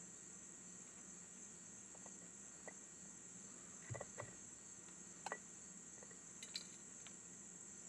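Faint, steady high-pitched insect trilling, with a few soft clicks and taps in the middle.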